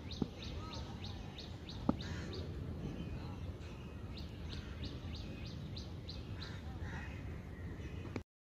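A small bird chirping: runs of short, quick, high chirps, each dropping in pitch, repeated a few times a second and coming in several bursts. Two sharp knocks stand out in the first two seconds over a steady low background noise, and the sound cuts off abruptly near the end.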